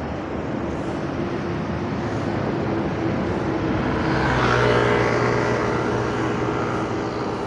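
Road traffic heard from a moving bicycle: a steady rush of passing vehicles, with a motor vehicle's engine drawing close and passing, loudest about halfway through.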